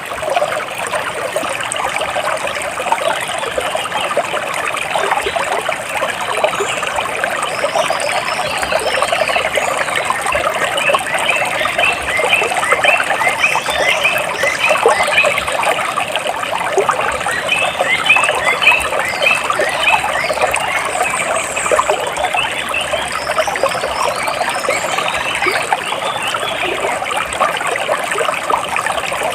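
Water splashing and trickling steadily. Over it, birds chirp in several quick series of short, high notes, clustered about a third of the way in, near the middle and again near the end.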